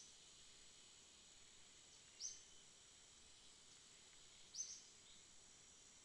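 Faint night ambience: a steady high-pitched insect drone, with a short high chirp repeating about every two and a half seconds, twice here.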